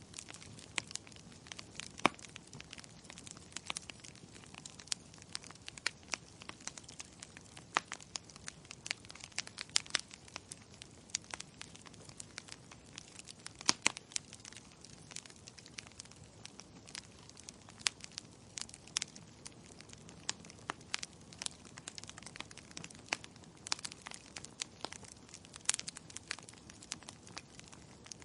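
Wood fire burning in a fireplace: logs crackling with irregular snaps and pops over a soft hiss, a few pops louder than the rest.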